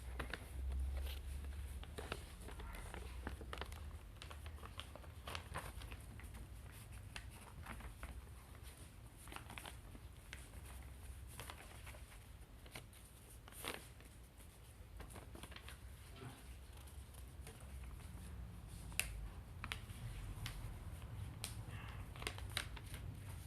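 Sheet of paper being folded and creased by hand into a paper airplane: irregular soft rustling and crinkling, with one sharp tap about 19 seconds in.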